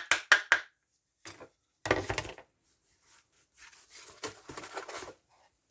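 Hard objects being handled and knocked on a work surface while a chainsaw is cleaned: a quick run of clicks, a louder clatter about two seconds in, then scraping and rubbing.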